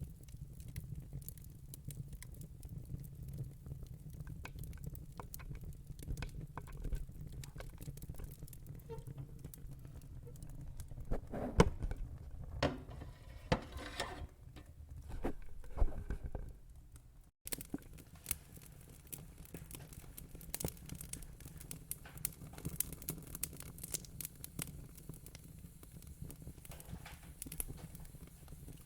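Wood fire in a fire pit crackling and popping over a low steady rumble, with a run of louder pops and hissing a little before the middle and a brief dropout just after it.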